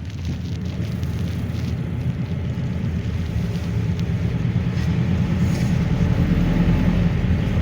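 A GAZelle NEXT minibus on the move, heard from inside the cabin: a steady engine and road rumble that grows gradually louder.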